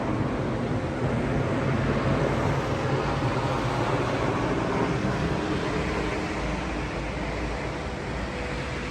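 Strong wind rushing steadily, with a low hum beneath it.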